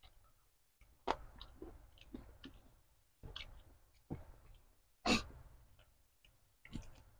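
Close-up eating sounds of a person chewing goat meat and lettuce: a string of separate wet smacks and crunches, the loudest about five seconds in.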